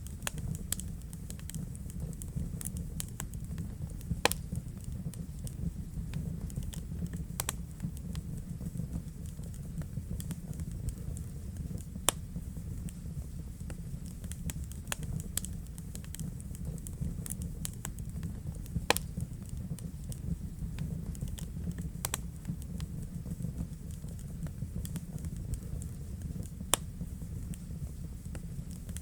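Wood fire burning in a fireplace: a steady low rumble of the flames with frequent, irregular sharp crackles and pops, a few louder snaps standing out.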